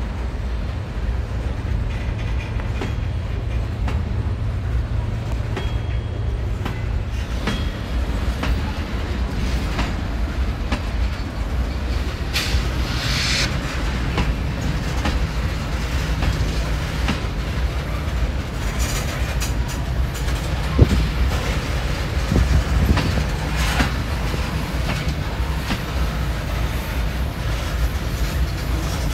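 Manifest freight train of covered hoppers and tank cars rolling past: a steady rumble of steel wheels with clickety-clack over the rail joints. One sharp clack comes about two-thirds of the way through.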